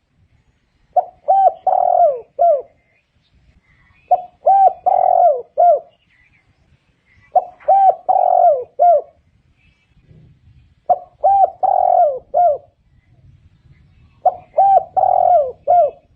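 Spotted dove cooing, its phrase of four or five cooing notes repeated five times at steady intervals of about three and a half seconds.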